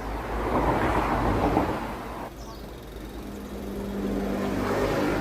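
Superbike engine, loud for the first two seconds then falling away sharply, followed by a steady engine hum that builds again near the end.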